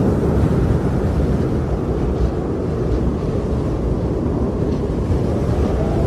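Strong wind blowing hard and steadily, a loud, deep rushing noise with no let-up.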